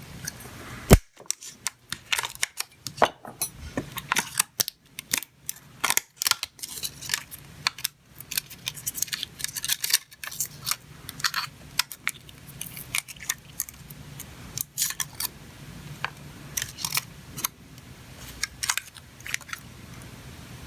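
Close-up handling of a small battery and its plastic end sleeve on a bench: a run of irregular sharp clicks and ticks, with one loud click about a second in.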